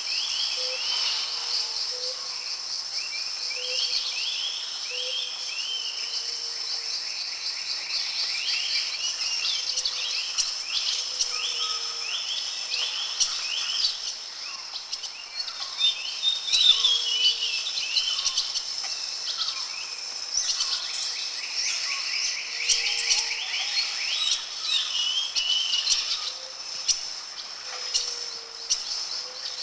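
Tropical rainforest ambience: a steady high-pitched insect drone under many birds chirping in quick repeated phrases, with a soft low call repeating roughly once a second.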